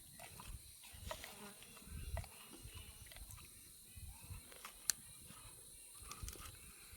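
Quiet outdoor ambience: a steady high-pitched insect drone, with scattered soft knocks and one sharp click about five seconds in.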